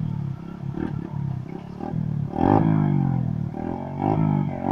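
Small trail motorcycle engine revving, with a clatter. It gets louder about halfway through, its pitch drops, then it climbs again near the end.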